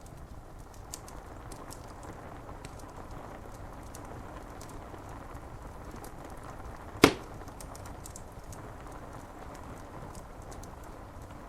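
Wood fire crackling with scattered small ticks and one loud, sharp pop about seven seconds in, over a steady hiss of rain on window glass.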